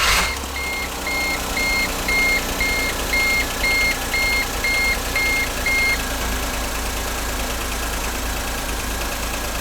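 The 1-litre three-cylinder engine of a 2008 Smart ForTwo idling steadily just after starting, with a cylinder 3 misfire. A high electronic beep repeats about twice a second over it and stops about six seconds in.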